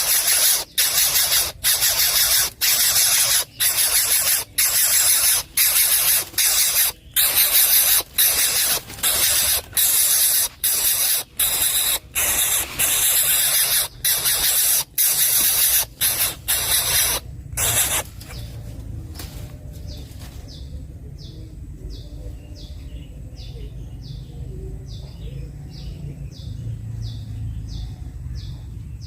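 A coucal nestling hissing loudly over and over, each hiss cut by a brief pause, for about the first eighteen seconds. The sound then drops to a rapid run of faint, high, short chirps repeating a few times a second.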